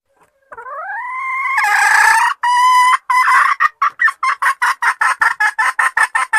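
Junglefowl lure call: one long rising call that levels off and is held, then a string of short sharp notes that come faster and faster, about four a second by the end, cutting off abruptly.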